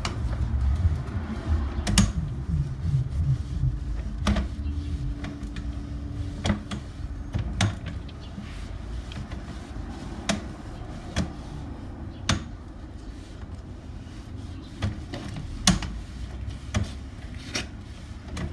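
Irregular clicks and knocks from handling a sewer inspection camera's push cable and reel as the camera is drawn back through the pipe, over a low rumble.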